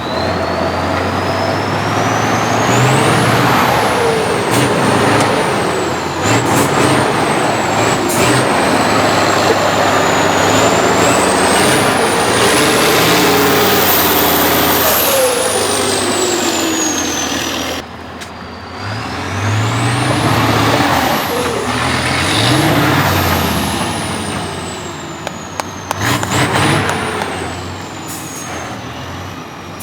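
Off-road trial truck's diesel engine revving hard under load, the revs rising and falling again and again, with a high whistle that climbs and falls along with them. It drops back briefly about two thirds of the way through, then revs up again.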